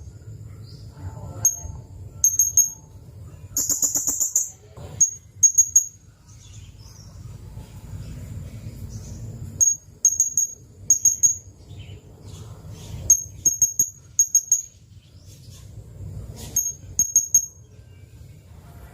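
Blue-crowned hanging parrot (serindit) giving sharp, very high chirps in quick bunches of two to four, every second or so, with one longer buzzy trill about four seconds in. A low steady hum runs underneath.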